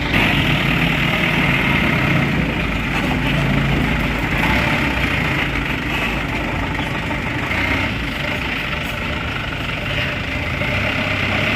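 Dump truck engine running steadily at a low, even speed.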